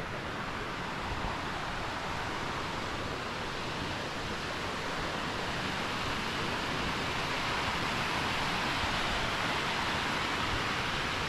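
Steady rush of water tumbling down a mountain creek toward a waterfall, slowly getting a little louder.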